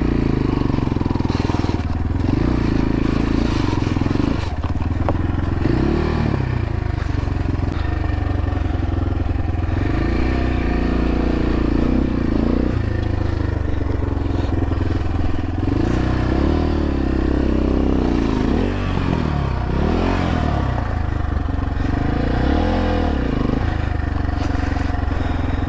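X-Pro Templar X 250 dirt bike engine revving up and falling back over and over as the bike picks its way over rough, rocky ground, with a few short knocks along the way.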